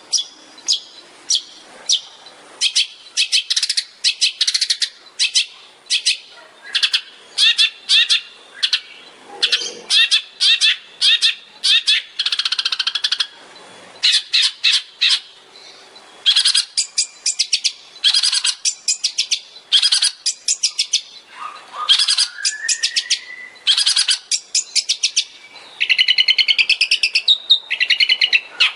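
Long-tailed shrike (cendet) singing in rapid-fire bursts of short, sharp, high chirps, one run after another. There is a longer warbled phrase about twelve seconds in, a rising whistle a little past twenty seconds, and a fast trill near the end.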